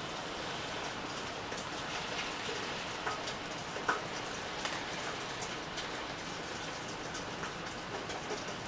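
Steady rain falling, with individual drops ticking sharply on a surface every second or so.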